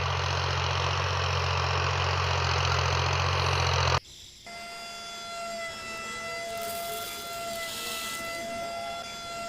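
Small DC motor of a DIY model tractor and flour mill running with a steady hum. About four seconds in it cuts off abruptly, and a quieter, higher steady whine follows.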